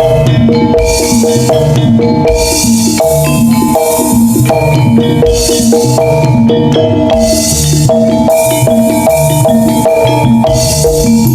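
Javanese gamelan music for a jaranan dance: metallophones ring a repeating melody over drum strokes, with a high splashing wash returning every few seconds.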